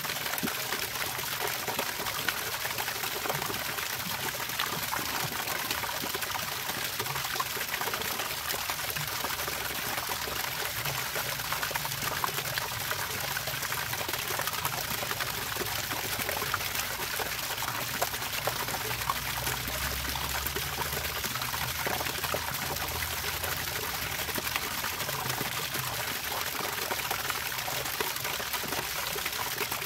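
Running water trickling and splashing steadily, a continuous pour with many small droplet splashes.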